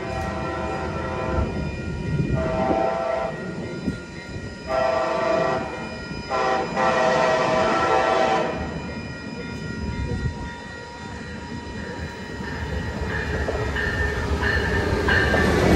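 Train horn blowing three blasts of about one and a half to two seconds each, the second and third almost run together, over the low rumble of a train on the tracks. Thinner ringing tones rise over the rumble in the last few seconds.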